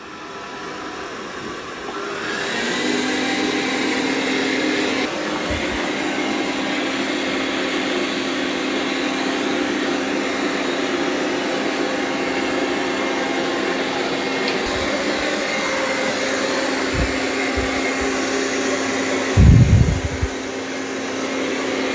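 Dreame robot vacuum vacuuming carpet: its suction fan spins up with a rising whine over the first two or three seconds, then runs steadily with a hum. A few low thumps come near the end.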